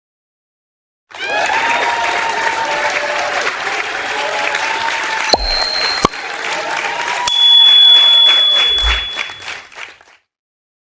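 Crowd applause and cheering, starting suddenly about a second in and fading out near the end, with a couple of sharp bell-like dings in the middle.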